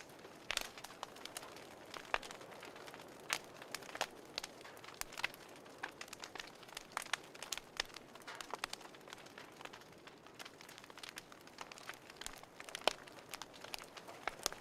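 Wood fire crackling in a fireplace: irregular pops and snaps over a soft steady hiss, with one sharper pop near the end.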